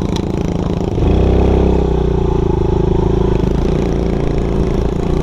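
Dirt bike engine running. About a second in the throttle opens and it revs up, holding a steady higher pitch for a couple of seconds before the pitch wavers as the rider works the throttle.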